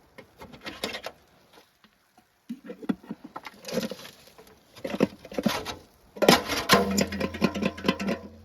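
Irregular light tapping and knocking, like objects being handled, growing busier after the first couple of seconds. A steady low hum joins near the end.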